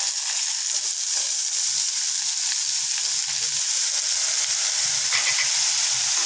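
Oil sizzling steadily in a metal kadai under frying onions and green chillies as diced banana stem is tipped in by hand.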